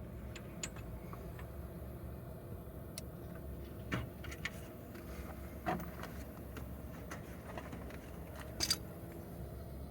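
Scattered light clicks and clinks of metal parts and tools being handled while a timing-belt tensioner is fitted. The three louder knocks come about four, six and nine seconds in, over a steady low hum.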